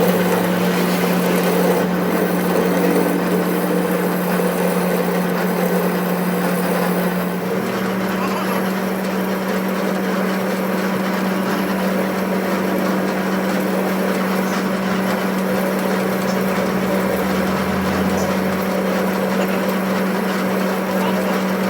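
A workshop machine running steadily: a constant hum over a noisy whir, the hum's pitch stepping up slightly about seven seconds in.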